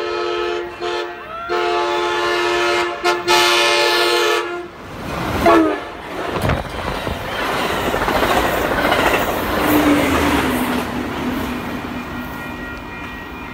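Amtrak Pacific Surfliner train sounding its horn in several blasts as it approaches, then rushing past close by at speed with a dense noise of wheels and cars on the rails that slowly fades as it goes away.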